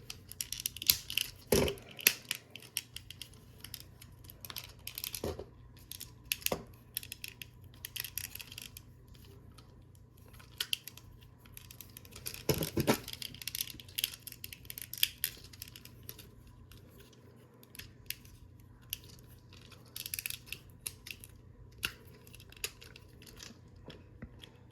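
Plastic parts of a Transformers action figure clicking, snapping and scraping as it is handled and transformed, with a few louder snaps of parts locking into place.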